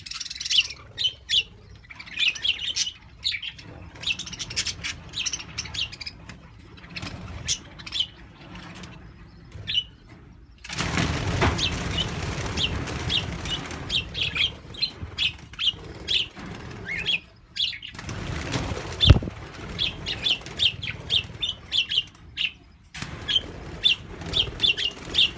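A flock of budgerigars chirping rapidly in an aviary, with a long stretch of fluttering wings and rustling from about ten seconds in until near the end, and a single sharp knock partway through it.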